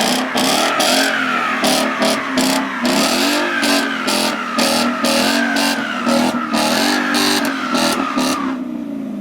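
A car engine revving hard up and down while its tires spin and squeal. It cuts off sharply about eight and a half seconds in.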